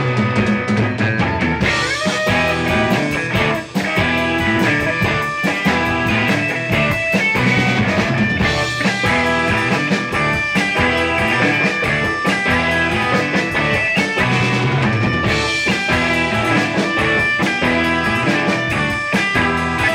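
Live rock band playing a song on electric guitar, keyboards and drum kit, with a steady beat.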